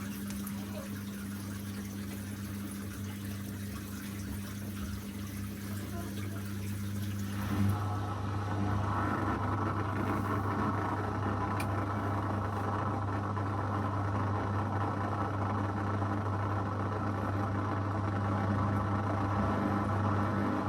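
Zanussi FL984CN front-loading washing machine running its wash cycle: a steady motor hum with water sounds. About seven seconds in the sound changes to a slightly louder whirring that holds steady.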